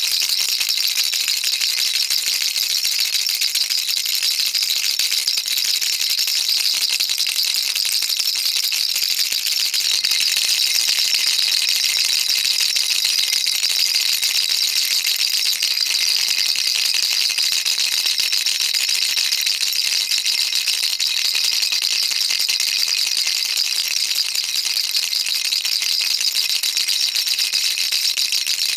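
Baby rattle shaken continuously, a dense, steady, high-pitched rattling of small beads inside.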